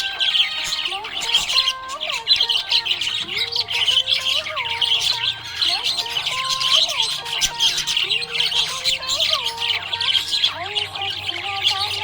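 Budgerigars chirping and chattering without a break: a dense mass of fast, high twittering with squawks, under lower gliding and stepping warbled notes.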